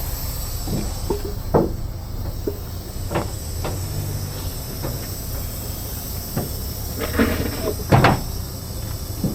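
Irregular knocks and clanks of recovery rigging gear being handled, the loudest about eight seconds in, over the steady low drone of an idling truck engine.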